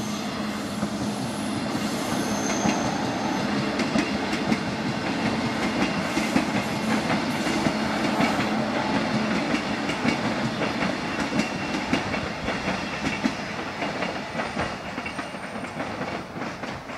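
Queensland Rail City Train electric suburban train running past, with a steady rumble of wheels on rail and many quick clacks as the wheels cross the rail joints. It eases off slightly in the last few seconds.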